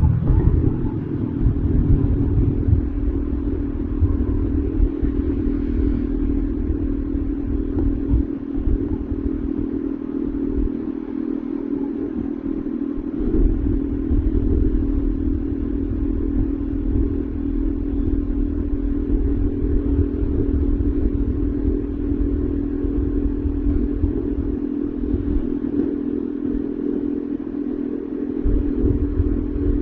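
Bajaj Dominar 400's single-cylinder engine running at a steady, unchanging engine speed, with a low rumble underneath that rises and falls.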